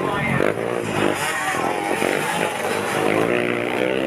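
Dirt bike engine revving, its pitch rising and falling.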